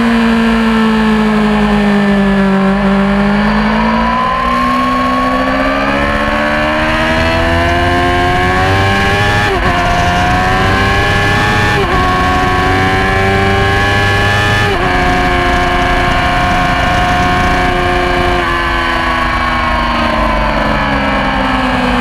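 Yamaha R6 600cc inline-four sport-bike engine at racing speed: the engine note dips, then climbs hard, with three quick upshifts about ten, twelve and fifteen seconds in, and falls away as the bike slows near the end.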